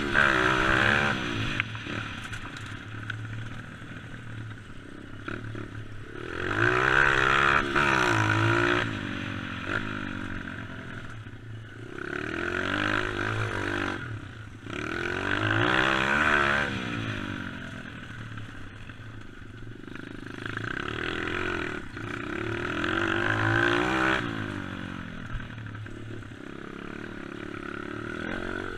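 Dirt bike engine revving up and easing off over and over, with its pitch climbing and dropping about five times as the bike is ridden.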